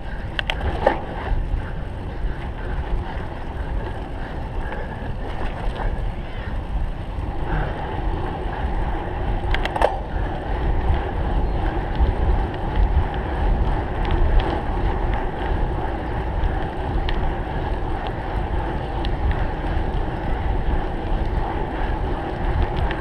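Wind rushing over the microphone with the rattle of a cyclocross bike rolling over rough ground, and a few sharp clicks about a second in and again around ten seconds in.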